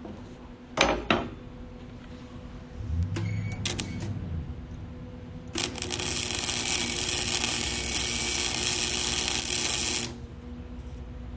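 Two sharp metallic clicks, some knocking over a low hum, then an electric welding arc crackling steadily for about four and a half seconds before it stops abruptly.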